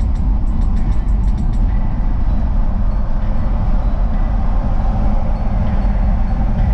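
A car running, a steady low rumble with no clear change in pitch.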